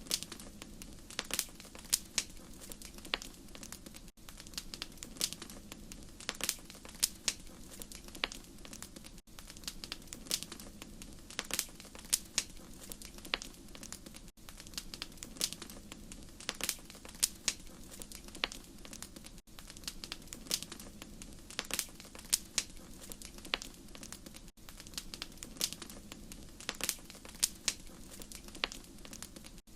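Wood fire crackling: irregular sharp pops and snaps over a steady low rumble of flames, with a brief dip about every five seconds, as in a short looped recording.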